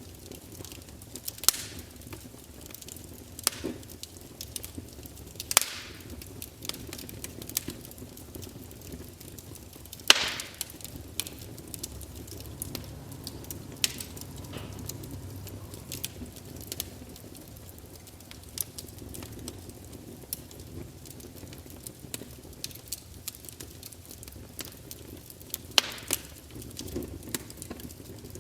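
Campfire burning with a low steady rumble, wood crackling and popping in irregular sharp snaps, a few loud pops standing out.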